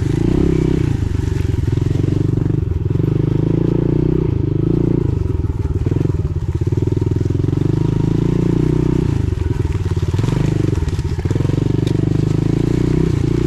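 Pit bike engine running at low speed, its throttle blipped off and on every second or two as the bike picks its way along slowly.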